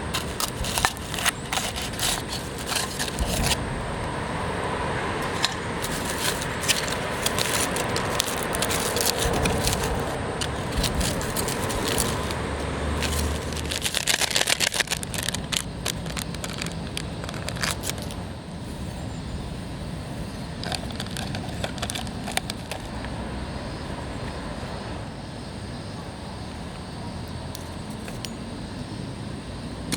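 Metal camp cookware being handled, with repeated clinks, rattles and scrapes and some crackling, densest around the middle.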